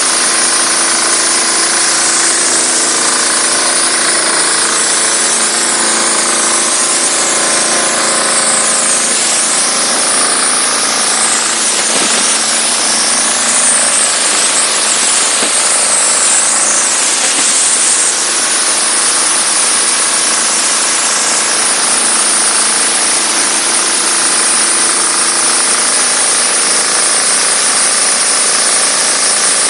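Diesel-engine-driven high-pressure washer running steadily: a loud, continuous high hiss of the pressure jet over the even hum of the diesel engine.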